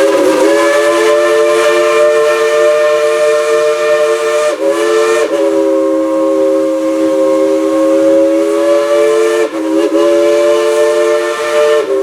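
Steam locomotive No. 70's three-chime Crosby whistle blowing long blasts, a three-note chord held for several seconds at a time, broken by quick dips about five and about ten seconds in.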